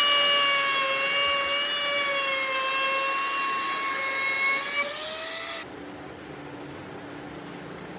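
High-speed electric power tool running on wood: a steady whine over a hiss that wavers slightly in pitch, then cuts off suddenly about five and a half seconds in.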